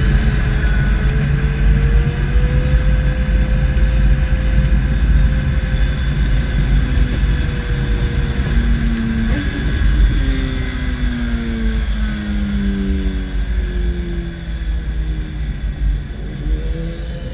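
Vehicle engines on a race track, heard through a bumper-mounted camera: a heavy, steady low rumble with engine notes gliding up and down. About halfway through, an engine note steps through several falling pitches.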